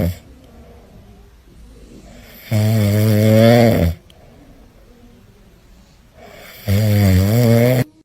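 Loud, rhythmic snoring: drawn-out, pitched, rattling snores of a bit over a second each, repeating about every four seconds, with quieter breathing between them.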